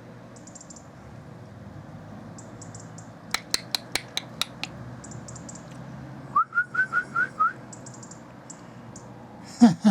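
A quick run of about seven sharp clicks, then six short rising whistles in fast succession, over faint repeated high chirping of small birds. A loud knock comes near the end.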